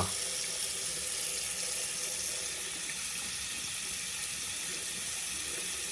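Hot water tap running steadily, left open to test whether the water heater is delivering hot water; the water is still only warm.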